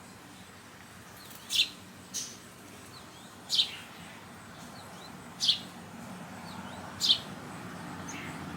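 Young hand-raised sparrow chirping: four sharp, short chirps, each falling in pitch, spaced about every one and a half to two seconds, with a fainter chirp just after the first.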